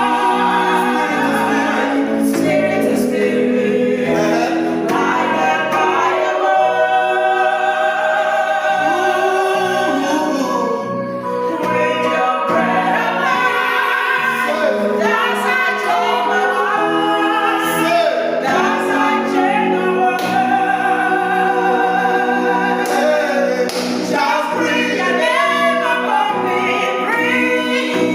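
A group of voices singing a church hymn in close harmony, unaccompanied, with sustained notes.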